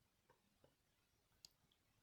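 Near silence: room tone with a few very faint clicks.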